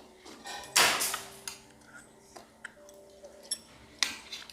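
Chopsticks clicking and tapping against a dish while food is picked up: a scatter of sharp ticks, with louder knocks about a second in and near the end.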